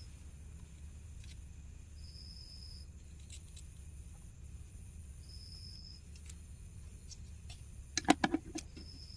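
Small repair tools clicking and tapping on an earbud's circuit board, with a quick cluster of sharp clicks about eight seconds in as the battery is worked loose. A faint high beep sounds every few seconds over a low steady hum.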